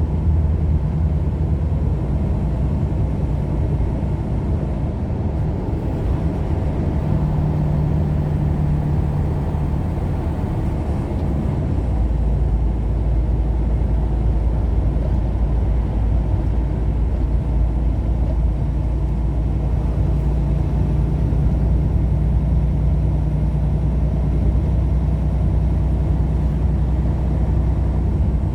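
A car driving along the road: a steady low rumble of engine and tyres. The deepest part of the rumble grows heavier about twelve seconds in.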